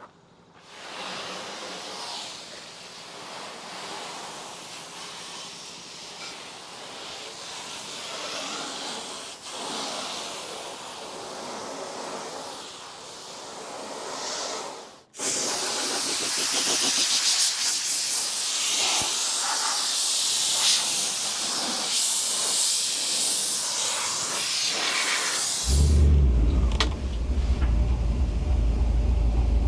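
Steady hissing of compressed air from a shop air tool, in two stretches split by an abrupt cut about halfway, the second louder. Near the end, a low, steady motor hum starts and runs on.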